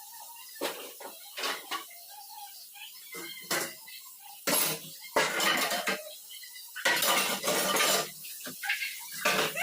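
Metal kitchen utensils and pots clattering and scraping: a few short knocks, then longer scraping bursts in the second half.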